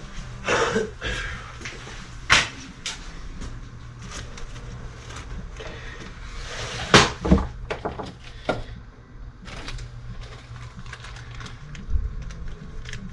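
Scattered knocks, clicks and clatters of tools being handled and a toolbox drawer or cabinet opened and shut, with a few sharp bangs about two and seven seconds in, over a steady low hum.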